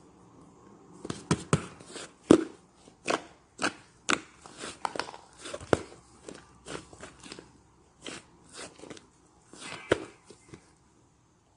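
Slime being pressed and squished by hand, giving irregular sharp pops and clicks, several a second at times, the loudest about two seconds in.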